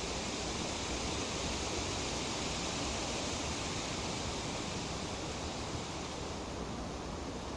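Tree leaves rustling in a steady breeze, an even hiss like white noise, easing slightly near the end.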